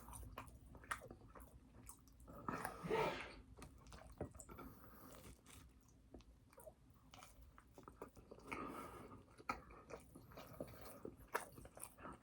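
A person chewing and biting food close to the microphone, with faint crunching and wet mouth clicks.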